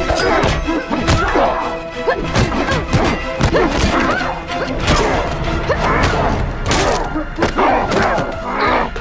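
Dramatic soundtrack music under a rapid series of hits, thuds and crashes, the sound effects of a fight scene.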